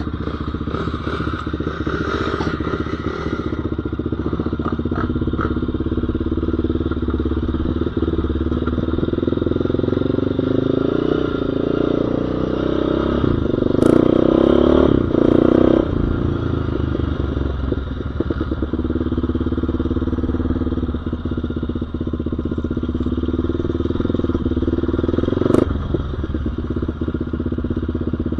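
Off-road engine running while being ridden, rising in pitch as it revs up toward the middle and loudest for a couple of seconds before the throttle drops off. A couple of sharp clacks occur, one mid-way and one near the end.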